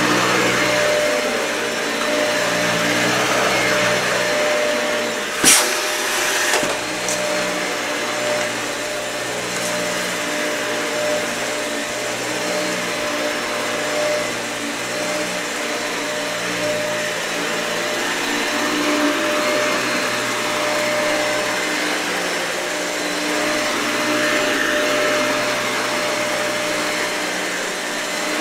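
Dyson vacuum cleaner running over matted carpet: a steady motor whine over the airflow hiss, with the low hum shifting as it moves. There is one sharp crack about five and a half seconds in and a smaller one shortly after.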